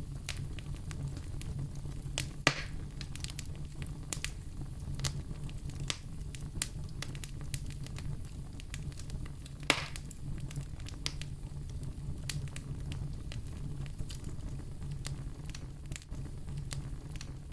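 Wood fire crackling in a fireplace: many small sharp crackles over a steady low rumble, with two louder pops, one about two and a half seconds in and another about ten seconds in.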